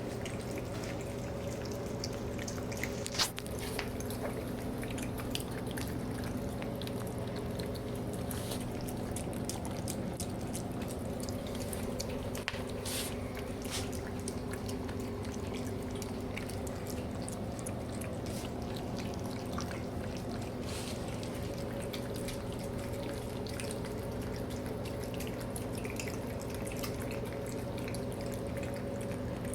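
Cats eating: many small, irregular wet clicks of chewing and licking over a steady low hum.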